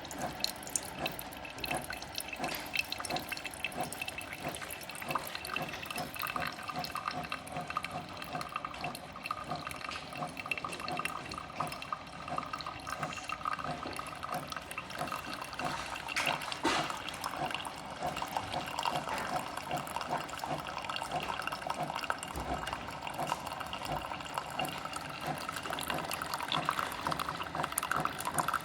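Mecity single-serve coffee maker dispensing, a steady stream of hot coffee running into a cup.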